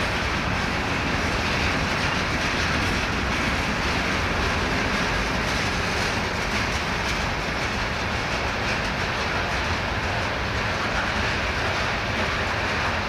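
Freight train's cars rolling past at steady speed: a continuous, even rumble of steel wheels running on the rails.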